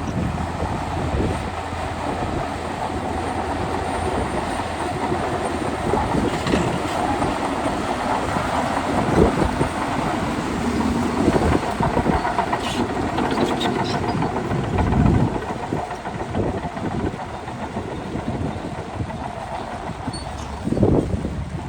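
Shantui DH17 bulldozer running with steady engine noise and track clatter, and several louder clanks and knocks along the way.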